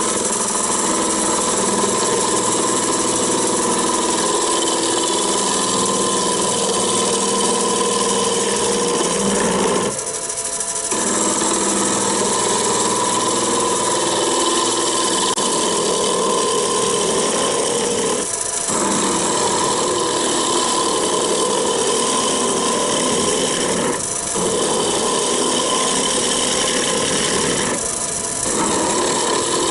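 Wood lathe running while a roughing gouge cuts a spinning blank of Irish elm: a steady motor hum under a rough cutting hiss. The cut stops briefly about ten seconds in and three more times later, where the gouge comes off the wood.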